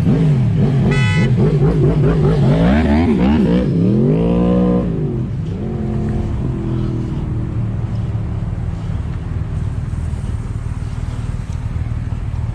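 Vehicle engines revving up and down in quick blips, several at once, with a short horn toot about a second in. After about five seconds the revving gives way to a steadier engine hum and road noise.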